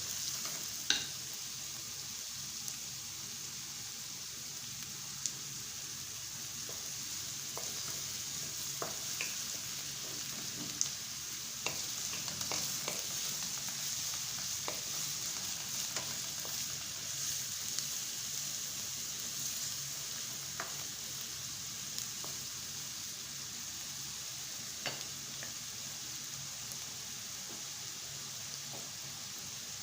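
Food sizzling as it is sautéed in hot oil in a pan: a steady frying hiss, with a few sharp clicks scattered through it.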